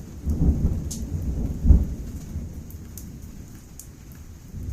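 Distant thunder rumbling, loudest about two seconds in and then dying away, over steady heavy rain.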